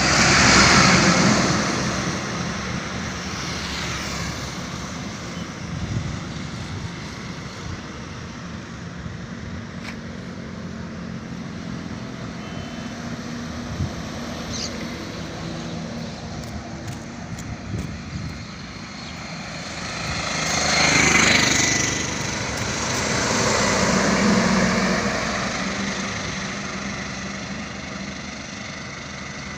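Road traffic with heavy vehicles such as trucks going by: a steady rumble of engines and tyres that swells loud and fades away as vehicles pass, once just at the start and twice more near the end.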